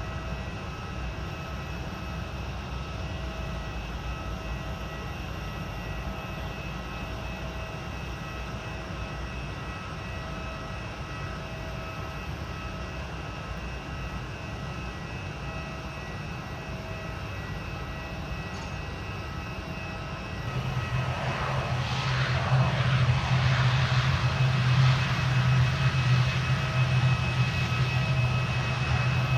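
Aircraft engines running with a steady low rumble and a few faint steady tones. About two-thirds of the way through the sound jumps louder, with a strong low hum and a rushing roar over it.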